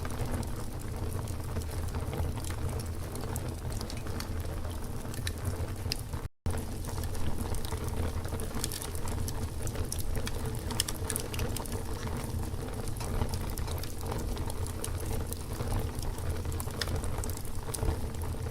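Wood campfire burning with a steady low rumble and hiss, and frequent sharp crackles and pops. The sound drops out for a split second about six seconds in.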